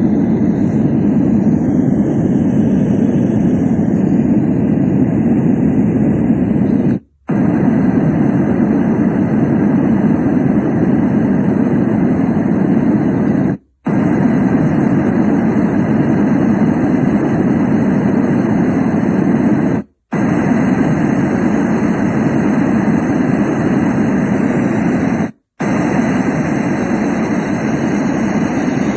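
Yogasleep Duet sound machine playing deep, steady noise sounds through its speaker, cutting out briefly four times as it steps from one sound preset to the next.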